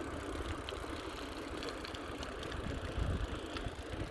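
Wind buffeting the microphone over steady road and tyre noise from a bicycle being ridden along a path.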